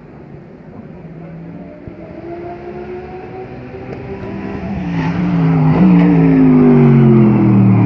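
GT3 race car engine at racing speed, faint at first, then growing loud as a car comes close about five seconds in, its engine note sliding steadily down in pitch as it passes.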